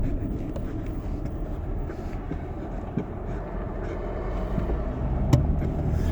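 Steady road and engine rumble heard inside a moving car's cabin, with a sharp click about three seconds in and another near the end.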